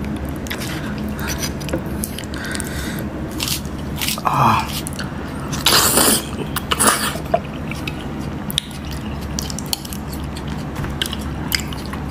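Close-miked chewing and biting of a mouthful of beef crispy pata: wet mouth clicks and smacks throughout, with a few louder crunching or slurping bursts about 4 to 7 seconds in.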